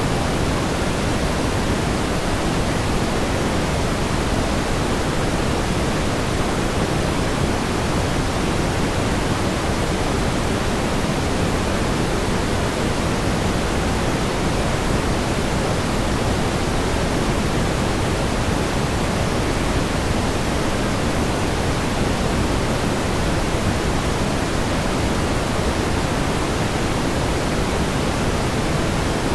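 Steady synthetic pink noise: an even hiss, heavier in the bass and softening toward the treble, unchanging throughout.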